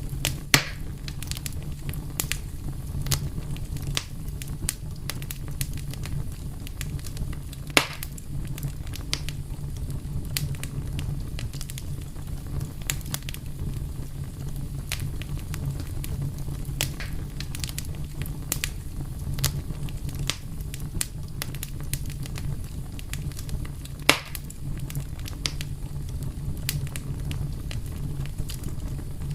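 Wood fire burning: a steady low rumble of flame under constant small crackles, with sharper pops about half a second in, near eight seconds and near twenty-four seconds.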